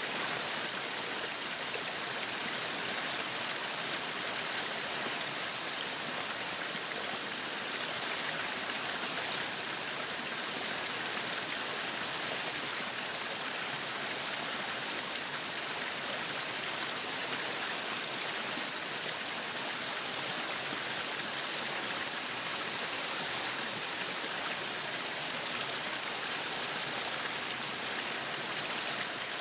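Meat sizzling on a yakiniku grill: a steady, dense crackling hiss.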